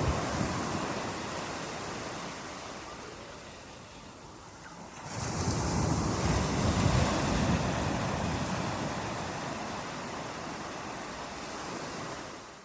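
Ocean surf: a wave washes in about five seconds in, rises to a peak, then slowly draws back.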